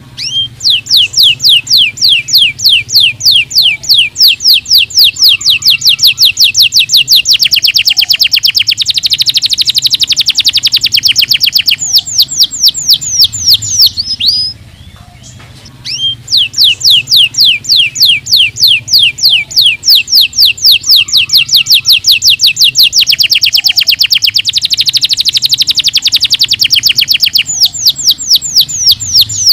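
Domestic canary singing: long trills of rapid, repeated downward-sweeping notes, with a denser, faster stretch in the middle of each phrase. The song breaks off briefly about halfway through, then the same song starts again.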